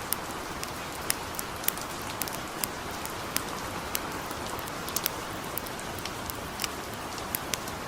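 Steady light rain hissing, with scattered sharp crackles and pops from a campfire, a few each second at irregular intervals.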